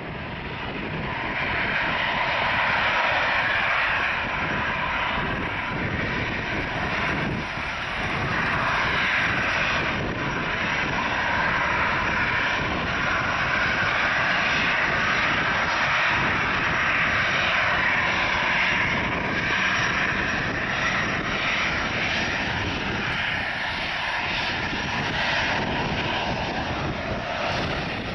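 Boeing 737-500's CFM56-3 turbofan engines at takeoff power, a loud, steady jet engine noise that builds over the first couple of seconds and then holds with small swells.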